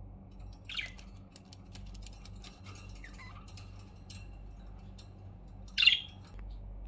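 Budgerigar giving two short sharp squawks, about five seconds apart, the second louder, with a few soft chirps and faint light ticking between them.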